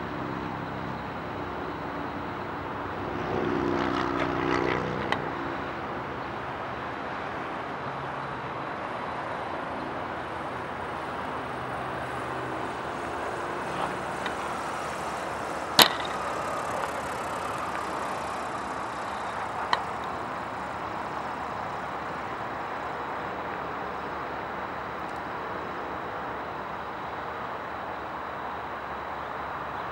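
Steady distant engine and outdoor noise, with a low engine hum swelling briefly about four seconds in. A sharp click about halfway through, and a smaller one a few seconds later.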